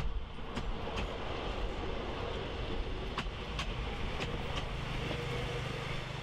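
Steam-hauled passenger train's coaches rolling past at a distance: a steady rumble with light clicks, several in pairs, as bogie wheels cross the rail joints. A low steady hum comes in about four seconds in.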